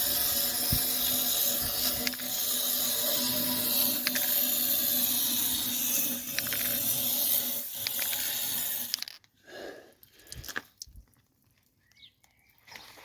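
Aerosol can of anti-corrosive cavity coating spraying through an extension tube into a van body cavity: a steady hiss for about nine seconds that cuts off suddenly, followed by a few small knocks.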